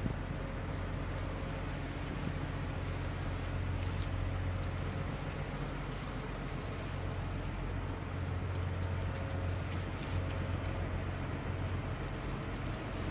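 Steady low drone of a large ship's engine, an even hum under a wash of noise.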